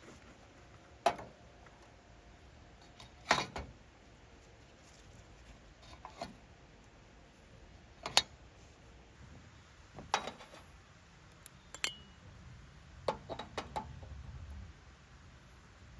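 Hard objects being handled: a string of separate clinks and knocks, a couple of seconds apart at first and several in quick succession about thirteen seconds in. A few ring briefly, like metal or glass.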